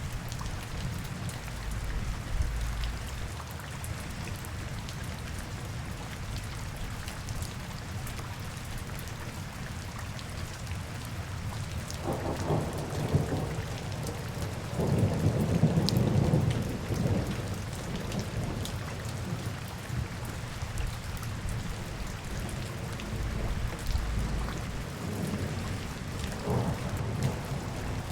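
Steady rain falling on hard city surfaces. A deep rumble builds about twelve seconds in and is loudest a few seconds later before fading, with fainter low swells near the start and near the end.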